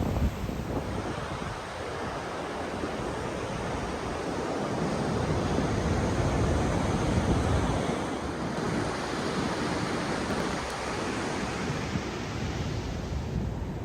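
Ocean surf breaking and washing on the beach, a steady rush that swells about halfway through and then eases, with wind buffeting the microphone.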